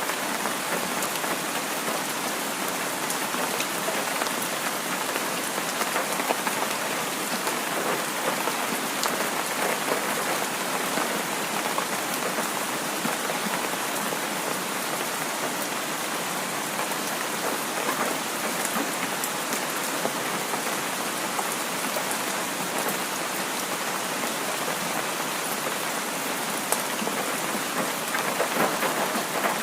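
Heavy rain falling steadily, with many single drops ticking through the hiss.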